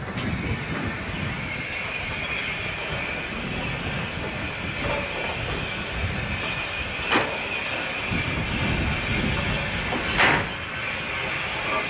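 Steam-hauled train running on a preserved line, with a steady rumble and hiss. There are two sharp clicks about three seconds apart in the second half, typical of wheels going over rail joints.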